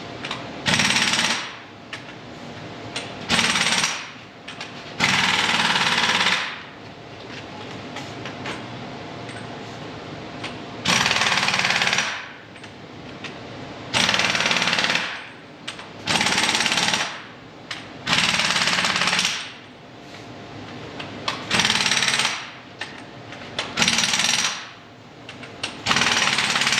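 Impact wrench run in about ten short bursts of hammering, each lasting about a second, with gaps of a second to several seconds between them.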